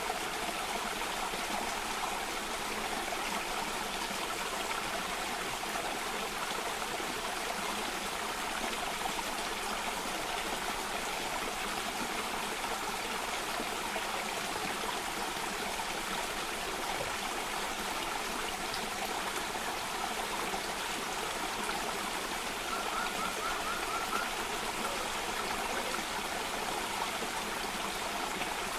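Water of a small cascading stream flowing steadily, with an even rushing and trickling. About two-thirds of the way through, a bird gives a short, quick trill.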